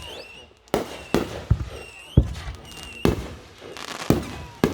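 Fireworks going off: a string of sharp bangs, about seven in under five seconds, with thin whistles gliding up and down between them.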